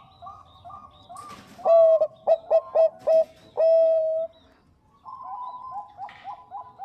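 A Bangkok-strain zebra dove (perkutut) cooing. Soft, rapid coos come first. After a brief noisy burst, a loud staccato run of about five short coos ends in one long drawn-out coo. Soft rapid cooing resumes about five seconds in.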